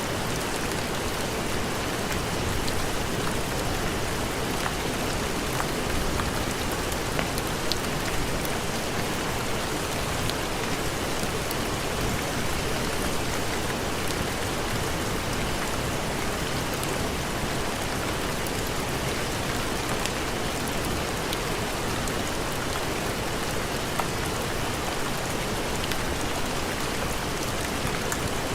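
Steady heavy rain with a few faint scattered ticks.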